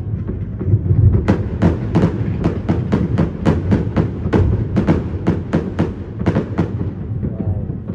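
Fireworks going off in a rapid string of sharp bangs, about four a second, starting about a second in and stopping about two-thirds of the way through, over a steady low rumble.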